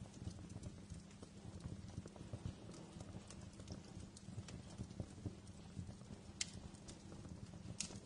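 Wood fire crackling in a fireplace: irregular small snaps and pops over a low, steady rumble of burning, with two sharper pops near the end.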